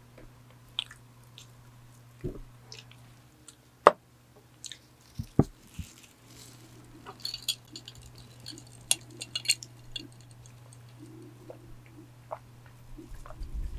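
Close-miked eating sounds: a chocolate-coated donut being bitten and chewed, with scattered sharp clicks and taps and a run of crackly ticks in the middle. The loudest of these is one sharp tap about four seconds in. All of it sits over the steady low hum of an electric fan.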